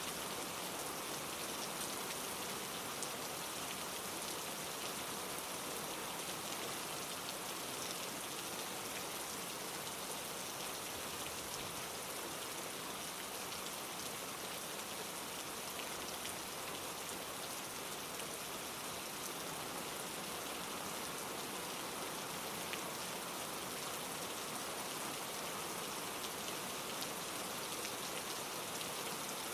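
Steady rain falling: an even hiss with faint scattered drop ticks, unchanging throughout.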